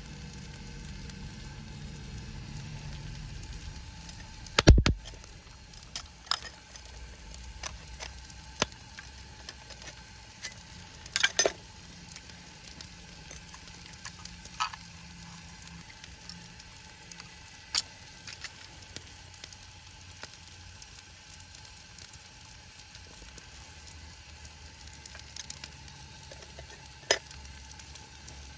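A steady sizzling hiss with scattered sharp clicks, a loud knock about five seconds in and a quick pair of clicks about eleven seconds in.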